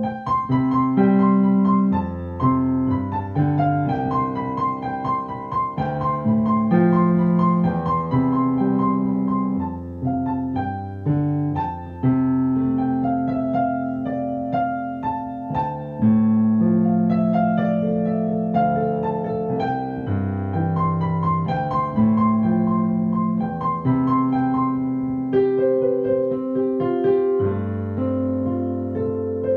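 Solo piano playing a song accompaniment: held chords in the low and middle range change every second or two, under a quickly repeated high note that comes and goes.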